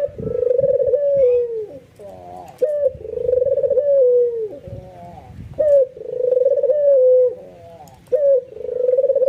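A white albino Barbary dove (puter) giving its bowing display coo, a sign of an excited bird. It repeats a two-part call about every three seconds: a short rising note, then a long wavering coo that drops off at the end.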